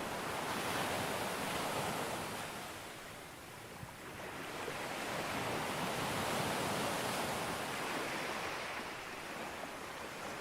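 Sea waves breaking and washing on a beach. The surf swells, ebbs about three and a half seconds in, then builds again into a second wave that eases off near the end.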